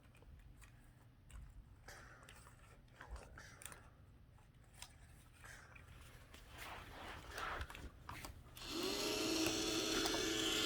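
Light clicks and taps of toys being handled, then, near the end, a small battery-powered toy motor switching on and running with a steady whine after a brief rise in pitch.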